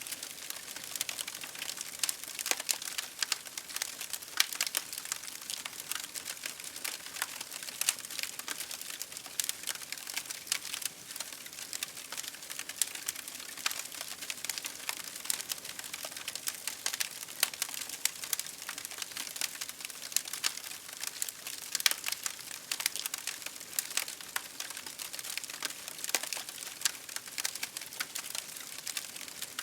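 Campfire burning, with a steady, dense crackle of many small pops and snaps over a soft hiss.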